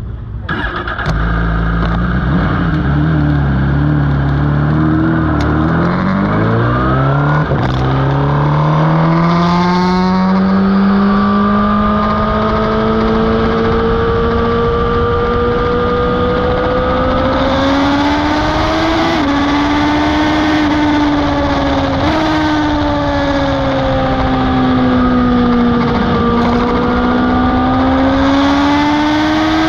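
Superbike engine pulling hard at racing speed. Its note climbs quickly at first, then rises more slowly with a few brief breaks and one dip as it shifts and backs off. A rushing wind hiss comes and goes over it.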